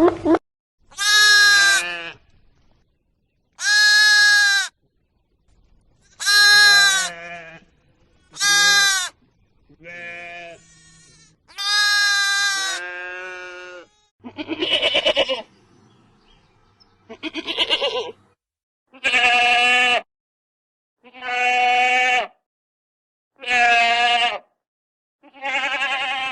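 Animal bleating: about a dozen separate pitched calls, each roughly a second long with short silences between; the calls in the second half are deeper than the first ones.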